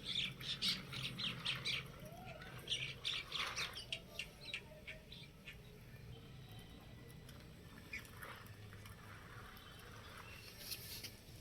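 Small birds chirping: quick runs of short, high chirps in the first half, then only an occasional chirp over faint background.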